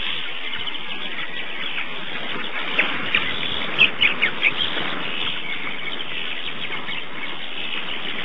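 Small birds chirping: a quick run of short, high chirps in the middle, over a steady hiss.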